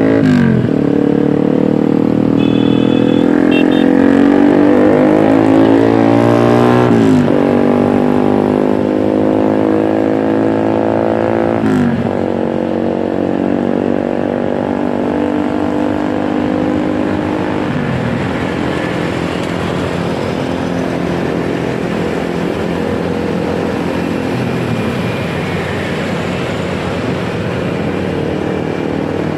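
Motorcycle engine pulling away, its pitch climbing and then dropping sharply four times as it shifts up through the gears, then running steadily at cruising speed over road and wind noise. A brief high beeping sounds about three seconds in.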